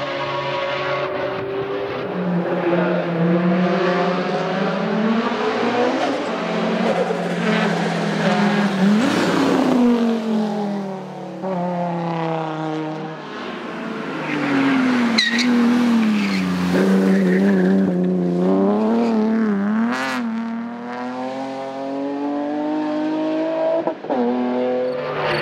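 Race car engine revving hard, its pitch climbing and dropping again and again with gear changes and lifts off the throttle.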